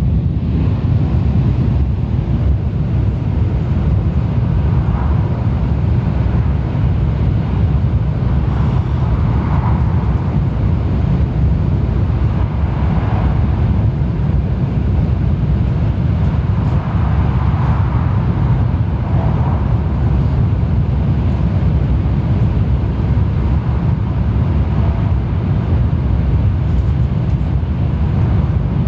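Interior running noise of a Shinkansen bullet train at speed: a loud, steady low rumble.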